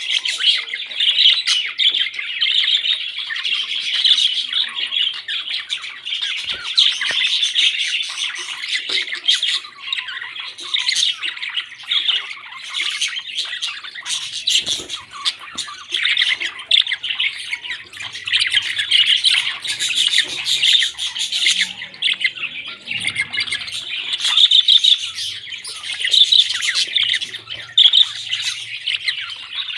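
Pet parrots squawking and chattering almost without pause, a dense run of quick, high calls.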